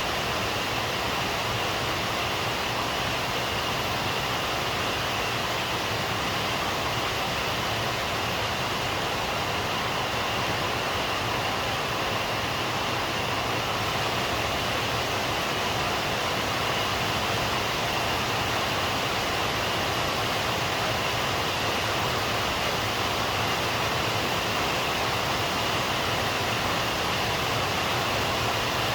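Steady rain, an even hiss that does not change, with no thunder.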